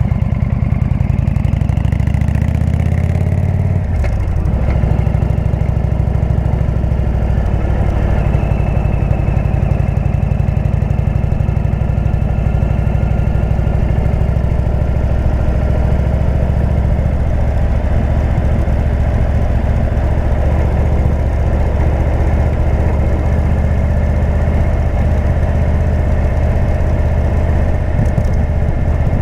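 Indian V-twin motorcycle engine through a Jekill&Hyde exhaust, dropping in revs over the first four seconds and then running steadily at low revs.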